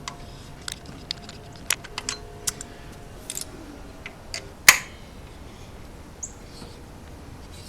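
Irregular sharp clicks and ticks of a hand tap being worked in a bolt hole in an aluminum valve cover, metal chips cracking as the threads are cut, with one louder snap about four and a half seconds in.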